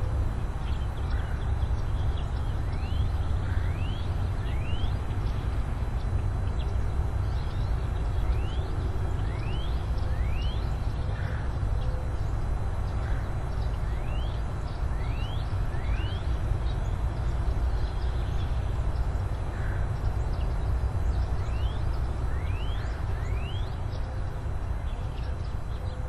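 A bird calling again and again with quick downward-sliding whistles, often in pairs, every second or two, over a steady low rumble.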